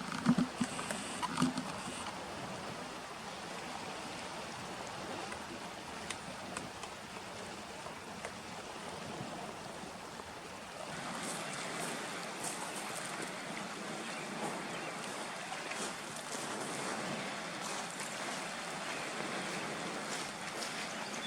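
Steady wash of small waves on the shore with some wind, growing a little louder and brighter about eleven seconds in. A few soft knocks near the start.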